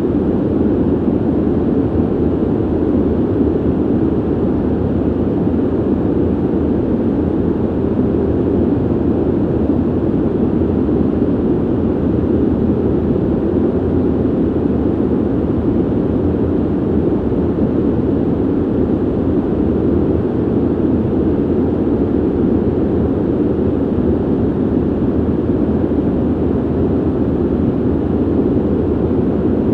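Steady ventilation noise: an even, low rushing of air from a ventilation system, with no changes or events.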